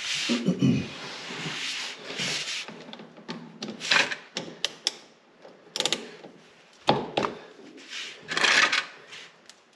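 Irregular metallic clicks, clatter and short scrapes of hand tools at work on a compact tractor's axle drain plugs.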